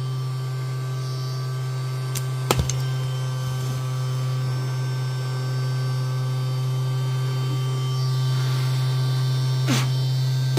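Henry vacuum cleaner motor running steadily with a low, even hum, with a couple of sharp clicks about two and a half seconds in and a brief rushing sound near the end.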